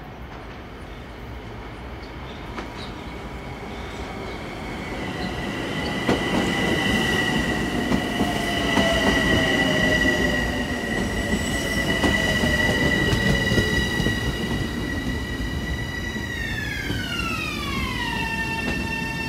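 Long Island Rail Road M7 electric train pulling in along the platform and slowing, growing louder as it arrives, with a rumble and a steady high whine. Near the end the whine glides down in pitch.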